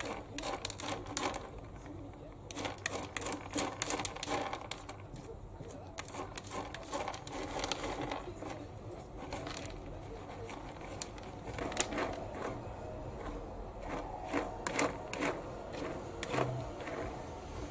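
Cat raking cat litter with its paws, a long run of quick, irregular scrapes and gritty rustles of the granules.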